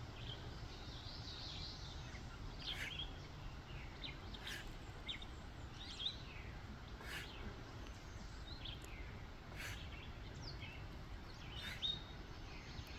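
Scattered short, high bird chirps over a steady low background noise, with a few faint clicks.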